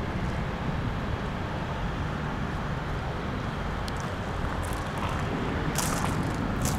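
Steady storm wind rumbling on the microphone, with a few faint crackling clicks in the second half.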